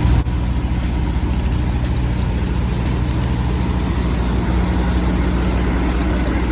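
Semi truck's diesel engine idling steadily, a low even hum, with faint ticks about once a second.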